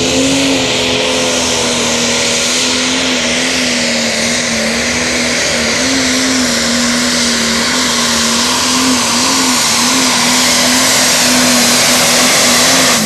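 John Deere super stock pulling tractor's turbocharged diesel engine running flat out under full load as it drags the weight sled. It holds one high, steady pitch with small wavers, rising slightly at the start, under a thick rushing noise.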